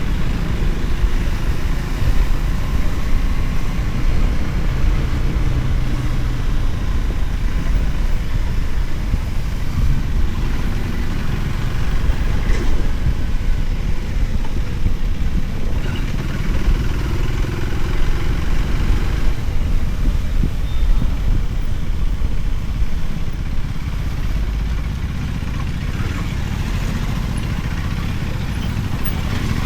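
Motorcycle engine running under way, with a heavy low rumble of road and wind noise; a little quieter for the last few seconds.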